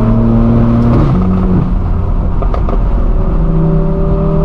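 BMW M4 F82's twin-turbo inline-six through a straight-piped, non-resonated AWE Track exhaust, running loud at steady revs, with the pitch stepping down about a second in as it shifts gear.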